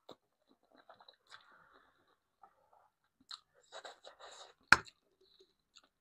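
Close-miked eating sounds: chewing and wet mouth clicks in short, scattered bursts, with one sharp knock about three-quarters of the way through that is the loudest sound.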